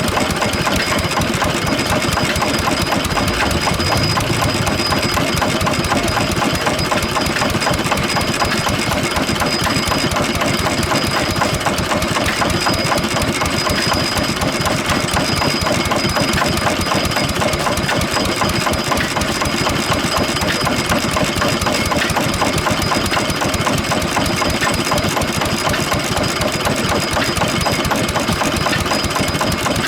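1917 International Harvester 1 hp Mogul single-cylinder kerosene stationary engine running steadily with a rapid, even mechanical clatter.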